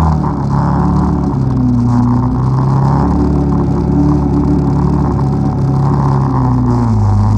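ATV engine running under way through snow, its pitch shifting up and down with the throttle and dropping near the end.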